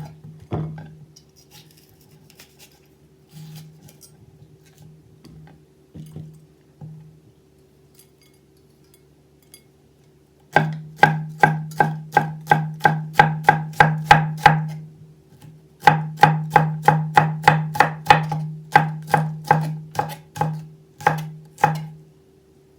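Kitchen knife chopping food on a cutting board: a few scattered cuts, then a long run of steady rhythmic chopping at about three strokes a second, with a brief pause partway through.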